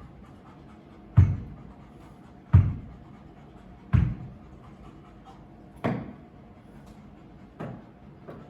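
A series of dull thumps, one about every one and a half to two seconds, growing fainter near the end.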